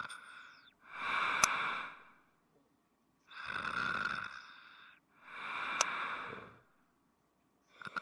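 A person snoring: four rasping, breath-like snores about every two and a half seconds, with a sharp click inside two of them.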